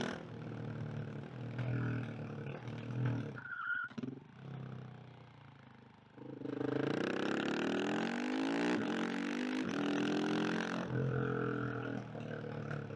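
KTM 690 SMC R single-cylinder motorcycle engine. Around 4 to 6 seconds in it backs off to a quiet, low note. It then accelerates hard, its pitch rising steadily for about four seconds, before easing back to a steady note near the end.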